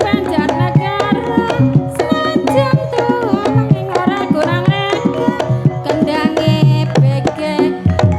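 Banyumasan Javanese gamelan music for an ebeg horse dance, with kendang hand-drum patterns driving a steady rhythm over the pitched ensemble.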